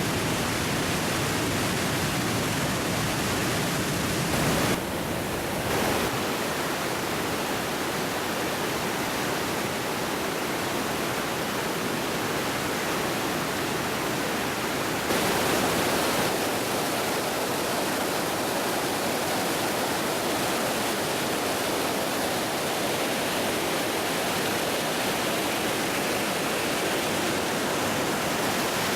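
Roar of Iguazu Falls, water pouring over the cliff as a steady rushing noise across all pitches. Its tone shifts briefly about five seconds in, and it grows slightly fuller about halfway through.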